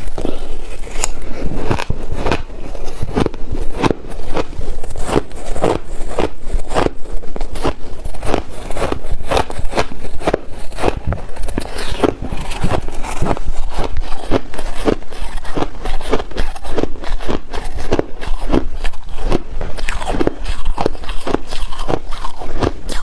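A person biting and chewing ice: a steady run of loud, crisp crunches, about two or three a second.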